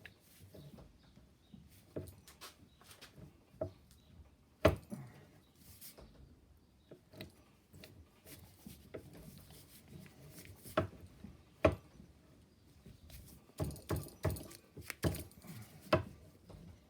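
Irregular clinks and knocks of hard objects being handled, with a few louder knocks about a third of the way in and two-thirds of the way in, and a quick cluster near the end.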